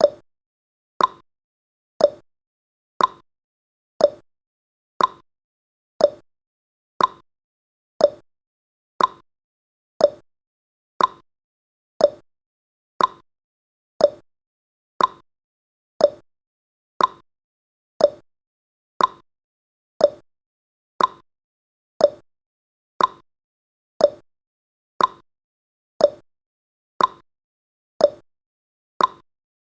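Clock-style tick-tock sound effect of a countdown timer: short sharp ticks, one a second, alternating between a higher and a lower tick.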